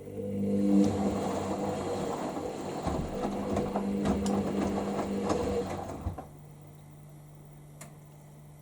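Hoover Inter@ct AAA160 front-loading washing machine tumbling its drum in the second rinse: a motor hum with laundry and water sloshing and clunking for about six seconds, then the drum stops and rests.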